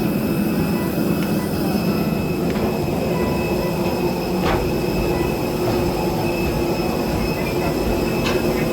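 Train running on rails: a steady rumble with faint high steady tones and a few light clicks.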